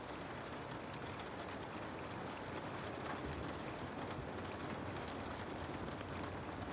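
Steady rain falling on a window, a dense even patter with faint scattered drop ticks.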